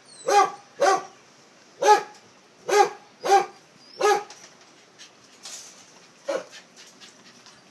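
Kennel dog barking: about six loud barks in the first four seconds, then a pause and one fainter bark.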